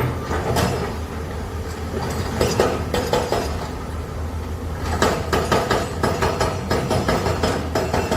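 Large excavator's diesel engine running low and steady, with metal clanking and rattling. The clanks come singly at first, then in a quick run from about five seconds in.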